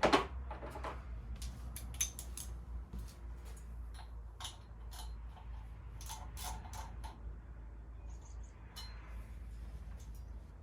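Metal hand tools and engine parts clinking and clattering during water-pump and pulley removal on a Jeep engine. There is a loud clatter at the start and scattered sharp clicks after it, over a steady low hum.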